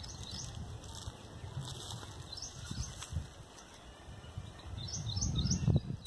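A small bird giving short, rising chirps, a few scattered through and three in quick succession about five seconds in, over low rustling and knocks from hands working in dry straw and twigs.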